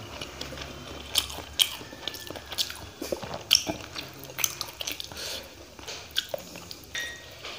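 Chewing and wet mouth sounds, with irregular sharp smacks and clicks, mixed with the soft squish of fingers mixing rice and fish curry.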